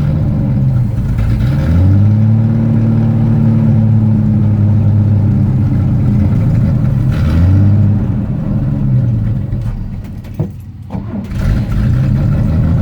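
1974 GMC truck's carbureted engine running just after a cold start at −5 °F, brought up on the throttle about two seconds in and held at a raised speed, revved again around seven seconds and let back down toward idle while oil pressure builds. Near the end the sound briefly drops away before the engine is heard again.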